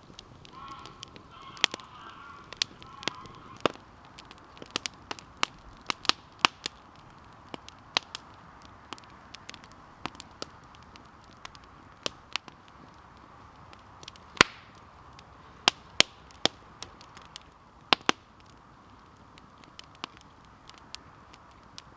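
Wood campfire crackling, with irregular sharp pops and snaps throughout; one loud pop about fourteen seconds in.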